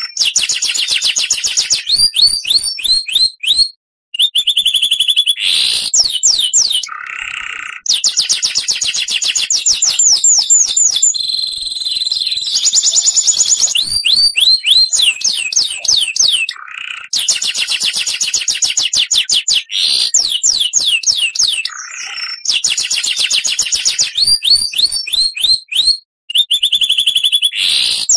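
Oriental magpie-robin (kacer) singing loudly: rapid runs of evenly spaced high notes and upward-sweeping whistles, in short phrases with brief gaps, the same phrases coming round again and again.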